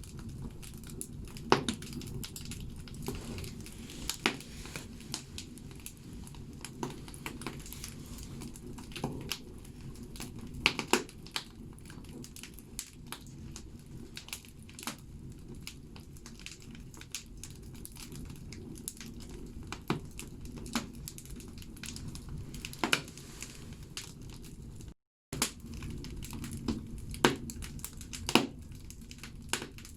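Firewood burning in a bathhouse wood stove, crackling with irregular sharp pops and snaps over a steady low rush of the fire. The sound drops out completely for a moment late on.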